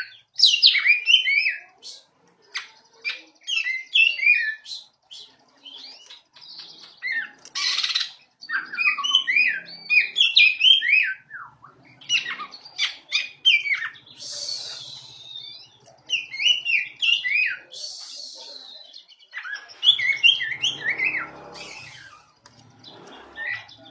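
Pet songbird singing in repeated phrases of quick, varied chirping notes with short pauses between them, broken by a few brief rasping bursts.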